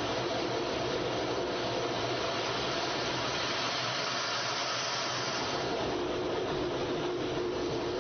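Military fighter jet engine running, a steady loud rush with a hum underneath that brightens briefly about four to five seconds in.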